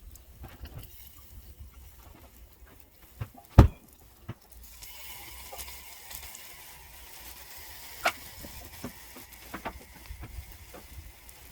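Sizzling and crackling at a small charcoal brazier, with scattered light clicks and two sharp knocks, the first about three and a half seconds in and the second about eight seconds in. A steady hiss joins in about four and a half seconds in.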